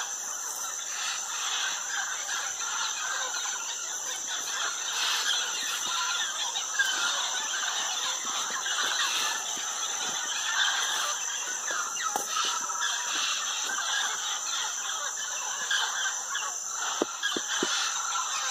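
A large mixed flock of parrots and scarlet macaws squawking and chattering, many calls overlapping without a break.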